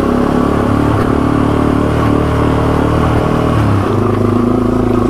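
Yamaha TW200's single-cylinder four-stroke engine running at a steady, moderate speed while riding, its note shifting slightly about three-quarters of the way through.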